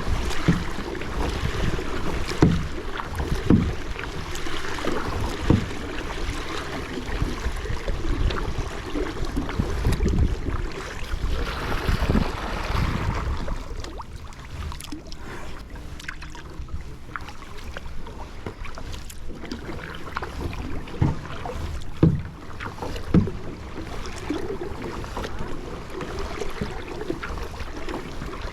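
Water splashing and lapping around a moving kayak, with a few sharper splashes scattered through.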